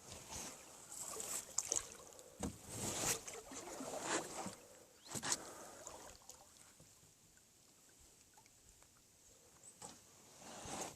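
Oars dipping and pulling through water as a small boat is rowed: several swishing strokes over the first six seconds, then quieter, with one more stroke near the end.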